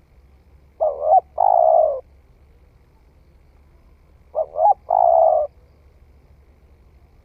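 Spotted dove cooing: two phrases about three and a half seconds apart, each a couple of short quick notes followed by one longer, lower coo.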